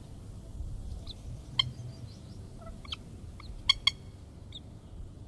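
Red-wattled lapwing giving short, sharp calls: a few scattered single notes, with a quick loud pair past the middle, over a low rumble.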